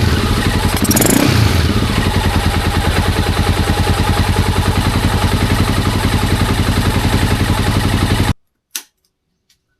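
Bimota BB1's single-cylinder engine on an FCR carburettor, running just after starting: a brief rev about a second in, then a steady, even idle. It cuts off abruptly over a second before the end, followed by a single click.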